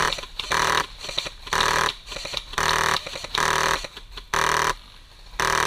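High-pressure-air (HPA) airsoft rifle firing about seven short full-auto bursts, roughly one a second. Each burst is a fast buzzing rattle lasting about a third of a second.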